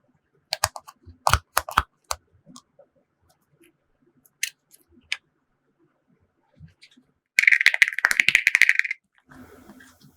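Small makeup containers and glitter being handled for slime mixing. A quick run of sharp clicks comes about half a second in, two more follow a few seconds later, then about a second and a half of fast rattling crackle.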